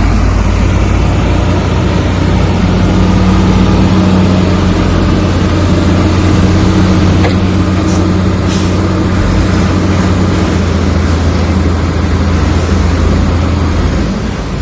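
Heavy diesel engine of earthmoving machinery running steadily under load, easing off near the end.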